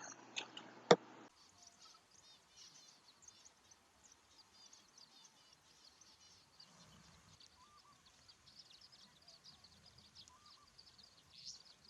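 Faint, busy twittering of a large mixed flock of small finches, Pictorella mannikins with star, masked and zebra finches, many short high chirps overlapping. A single click about a second in.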